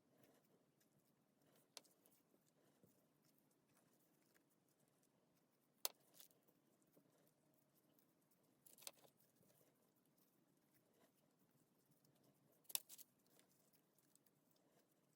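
Near silence with a few scattered sharp clicks and taps, the two loudest a little before the middle and a little before the end.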